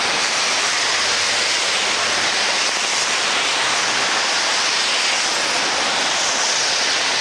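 Steady hiss of heavy rain with water running over the street.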